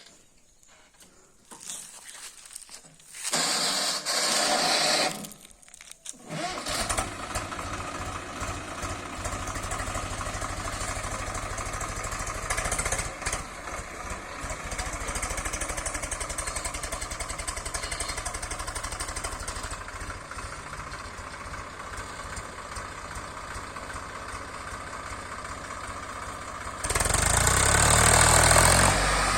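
Swaraj tractor's diesel engine being cranked and starting, then idling with a steady low chug. It grows louder near the end as it is revved or put under load.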